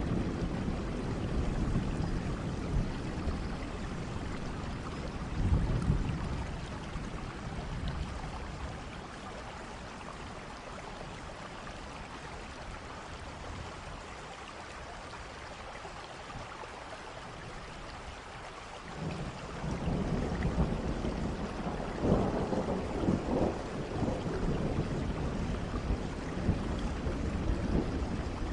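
Steady rain with rolling thunder. The low rumble dies away in the middle, then a new thunder rumble starts suddenly about two-thirds through and swells several times.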